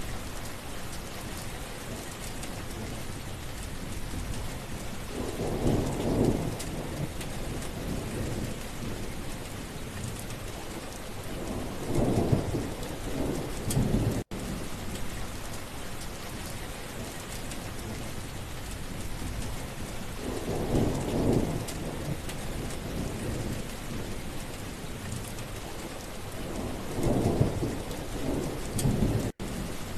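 Steady rain falling, with four rolls of low thunder rumbling through it. The sound cuts out for an instant twice.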